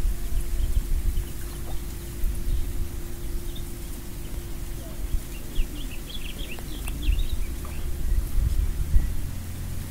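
A bird's quick high chirps, a short cluster about six to seven seconds in, over a steady low rumble.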